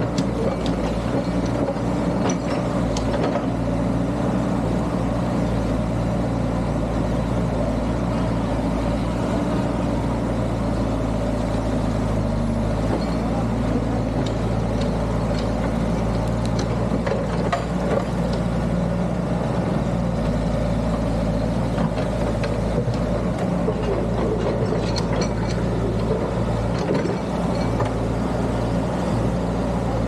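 Excavator's diesel engine running steadily, with a few short knocks scattered through.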